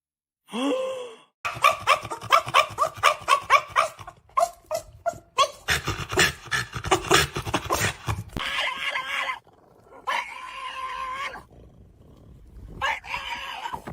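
A dog vocalising: a fast run of short, repeated barking or growling calls, then several longer drawn-out calls with pauses between them.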